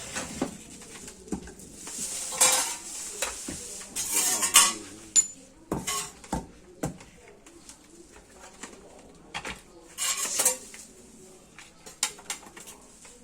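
Metal parts and tools of a sugarcane press being handled: irregular clinks, knocks and short scrapes of metal on metal, with a few louder clusters.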